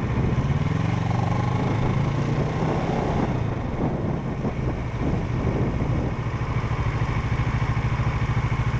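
Motorcycle engine idling with a steady, even pulse, which turns uneven for a few seconds in the middle.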